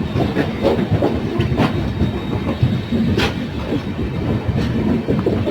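Passenger train coaches rolling slowly into a station, wheels running with a steady rumble and clicking sharply over rail joints every second or so.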